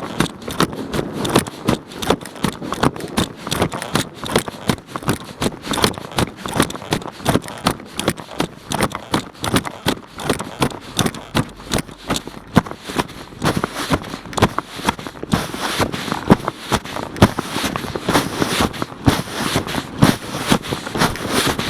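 Rain drops striking a surface close to the microphone: a dense, irregular patter of sharp taps that grows heavier after about thirteen seconds.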